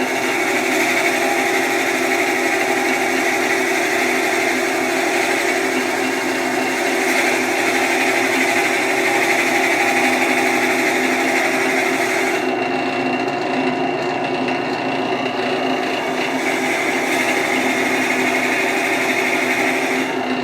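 Wood lathe running while a 1.5-inch Forstner bit bores into the spinning wood: a steady motor hum under a hissing, rasping cut. The cutting sound eases off for a few seconds about twelve seconds in, then comes back.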